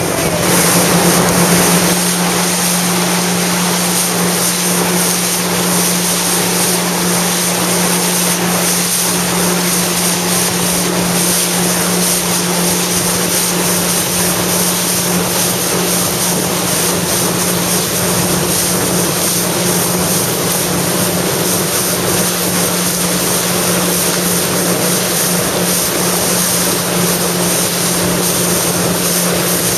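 Jet ski engine running steadily at speed, rising a little in pitch about a second in, with wind and rushing water.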